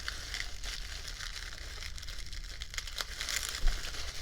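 Packing material crinkling and rustling as an item is unwrapped and lifted out of a box, with scattered light clicks and a single low thump about three and a half seconds in.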